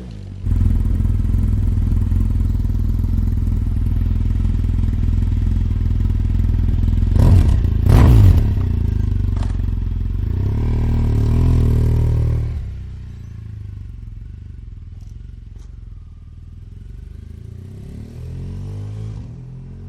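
Motorcycle engine running, with two short loud bursts about seven and eight seconds in, then dropping to a quieter, steadier level after about twelve seconds.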